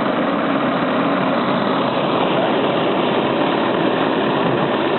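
Stirling engine running steadily with an even mechanical clatter, heated by its burner flame.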